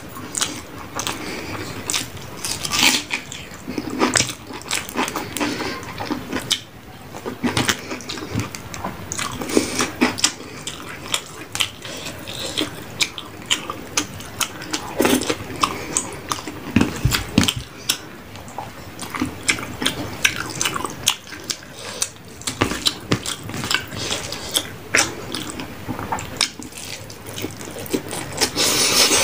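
Close-up eating sounds: wet chewing and mouth smacks of someone eating rice with fish curry, with many short, irregular clicks.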